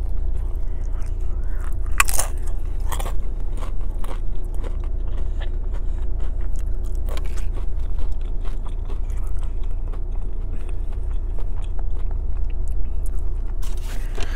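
Close-miked chewing and biting of a burrito mouthful, wet chewing with scattered crunches, the sharpest about two and three seconds in. Underneath runs the steady low hum of the idling car and its air conditioning.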